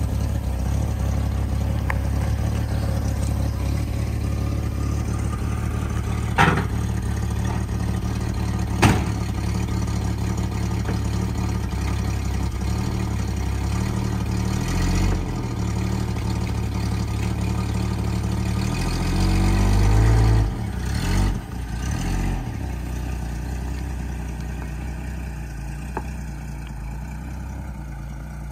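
An old Holden ute's engine idling steadily, with two sharp knocks about a third of the way in. Around two-thirds through, the engine revs up as the ute pulls away, then grows fainter as it drives off.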